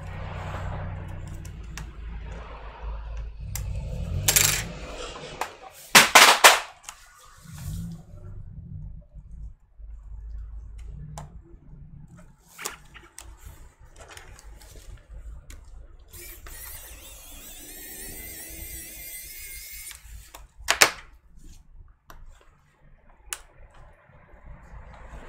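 Laptop disassembly handling: small hard parts and tools clicking and clinking on a workbench, with a loud clatter about six seconds in and a sharp click near the end, and a few seconds of scraping hiss in between.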